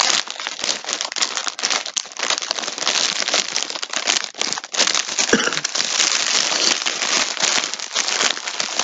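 Packaging crinkling continuously as a skein of yarn is handled in its wrapper, starting suddenly out of quiet.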